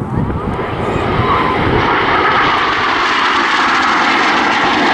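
Jet noise from a formation of BAE Hawk T1 jets flying a display manoeuvre. The roar builds over about the first second, then holds loud and steady.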